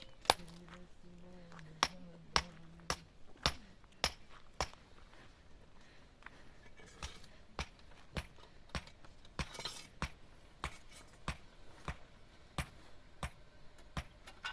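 Sharp clinking knocks of hard objects struck together, repeating roughly every half second to second. They are loudest in the first three seconds and lighter afterwards.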